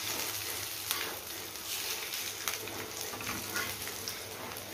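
Oil sizzling steadily around small sweet potato adai shallow-frying in a nonstick pan, with a spatula turning them and a few light clicks against the pan.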